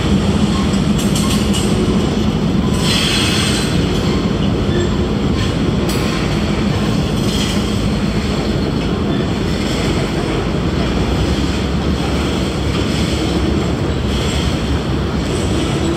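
Freight train of boxcars rolling across a low wooden railroad trestle: a steady rumble and clatter of steel wheels on the rails.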